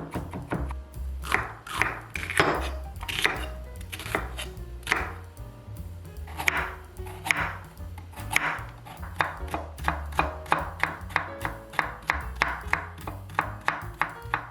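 A kitchen knife chopping vegetables on a cutting board in repeated strikes, quickening to a steady run of about three or four chops a second in the second half. Background music plays underneath.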